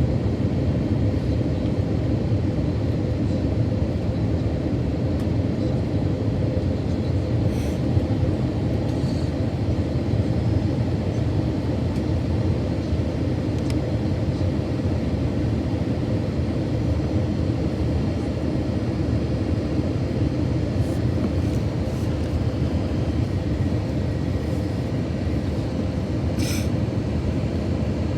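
Steady engine and airflow rumble heard inside the cabin of an Airbus A321-200 airliner, with a faint steady hum and a couple of light clicks.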